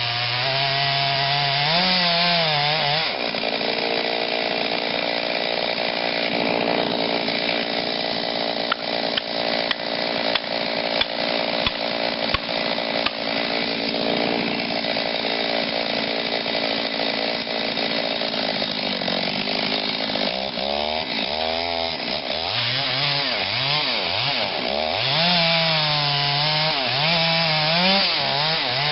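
Stihl 039 two-stroke chainsaw with a modified, opened-up muffler running under load as it cuts into a big oak. Its engine speed wavers up and down at the start and again in the last third, holding steadier through the middle, where scattered sharp clicks come through.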